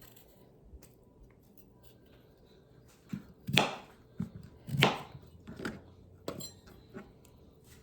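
Knife chopping through raw sweet potato onto a cutting board: about six sharp cuts starting about three seconds in, roughly one every half second. The knife is dull.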